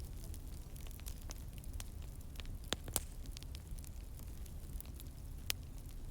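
Wood fire burning in a fireplace: a steady low rumble and hiss with scattered sharp crackles and pops, the loudest about three seconds in and again near the end.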